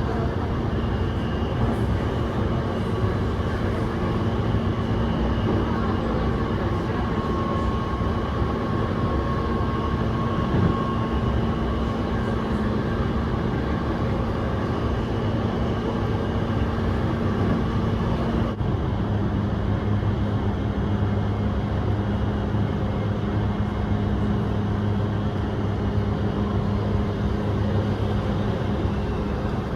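Steady running noise heard inside a moving Yokosuka Line electric commuter train: a continuous rumble with a low hum and faint steady tones. About two-thirds of the way through, the sound changes abruptly, losing its upper hiss and settling into a deeper hum.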